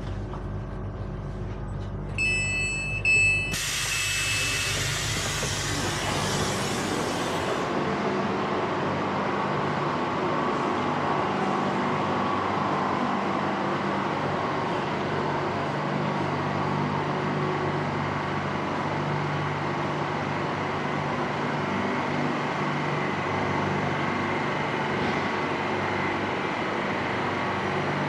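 Airport Rail Link train at a station: a short electronic chime about two seconds in, a burst of hiss, then a steady running rumble with a low hum.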